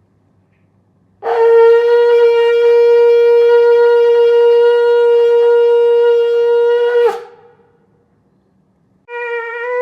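A shofar blown in one long, steady blast that starts about a second in and holds for about six seconds, its pitch flicking upward as it ends. After a short pause, another shofar blast begins near the end, its pitch wavering.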